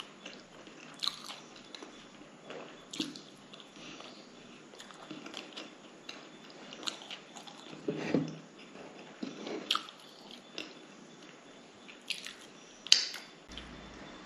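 Close-up mouth sounds of someone eating a homemade cutlet by hand: chewing with wet smacks and short clicks scattered throughout, the sharpest one near the end.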